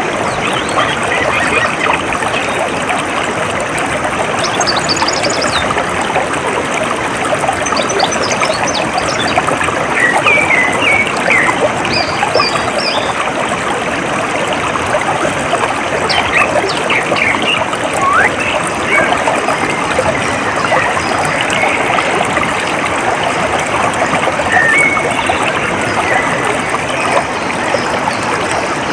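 Water trickling steadily in a small stream, with scattered short bird chirps over it.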